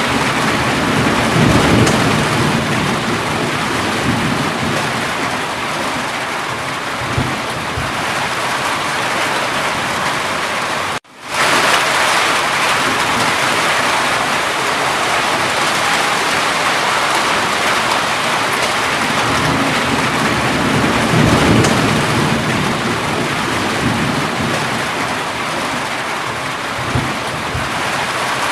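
Steady heavy rain, with low rolls of thunder about two seconds in and again around twenty seconds in. The sound cuts out for a moment about eleven seconds in and swells back up.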